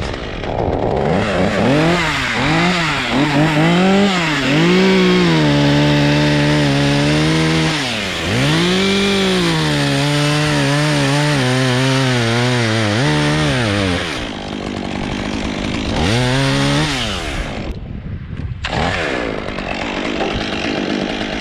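Chainsaw cutting wood. The motor's pitch swoops up and down with the throttle several times, then is held lower and steady under load through two long stretches of cutting. It stops about 14 s in, revs briefly around 16 s, and a rushing hiss follows near the end.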